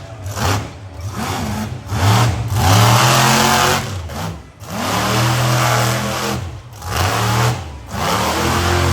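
Monster truck engine revving hard in about five bursts, each rising in pitch, holding, then dropping off.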